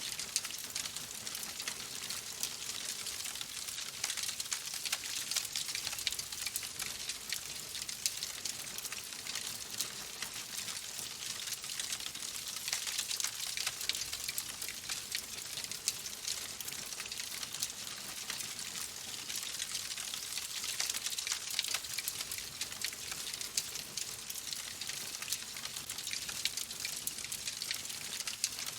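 Fireplace fire crackling: a steady hiss with dense small pops and snaps.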